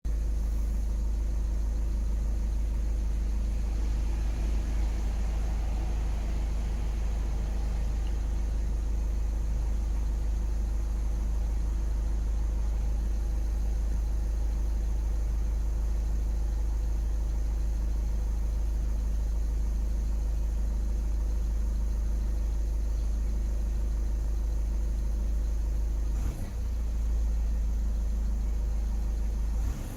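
Car engine idling steadily on test, a low even running note with a brief dip in level near the end.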